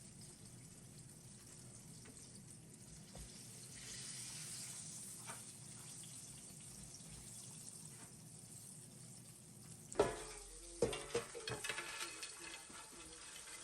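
Food sizzling as it fries in hot oil, a steady hiss. About ten seconds in there is a sharp knock, then a quick run of clattering knocks, like a utensil against a pan.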